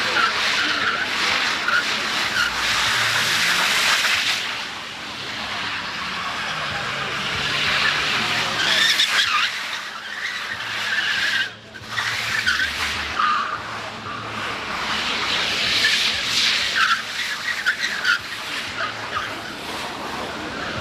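Car tyres squealing and skidding as cars drift, swelling and fading in several waves, with a brief break about halfway through.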